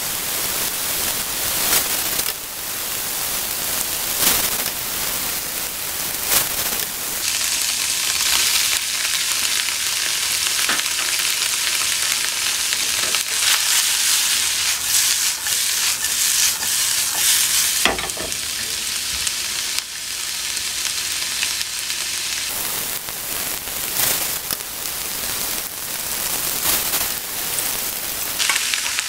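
Cubed tofu with diced peppers and onion sizzling in a hot frying pan, a steady frying hiss that swells in the middle, with occasional short knocks from stirring.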